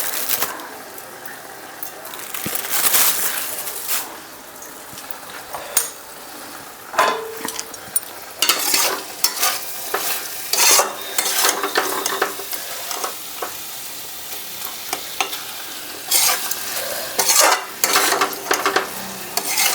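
Spatula stirring and scraping chili baby corn in sauce around a kadai, in irregular bursts of strokes, over a steady low sizzle from the pan on a low flame.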